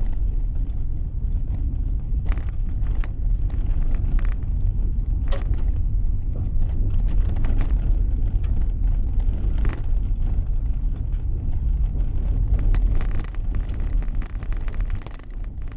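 Car driving on the road, heard from inside the cabin: a steady low rumble of engine and tyres, with a few sharp clicks and rattles, easing a little near the end.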